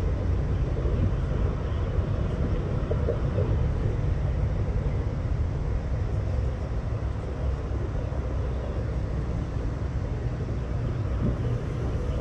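Diesel train running along the track and moving away: a steady low rumble that slowly grows fainter.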